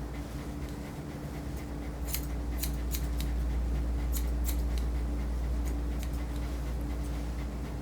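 Grooming shears snipping through matted hair on a dog's ear: a run of quick, irregular snips, over a steady low hum.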